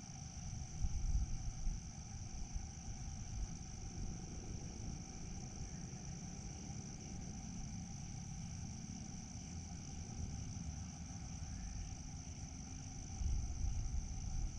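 Steady high-pitched chirring of crickets, an unbroken insect chorus, over a low rumble that grows louder near the end.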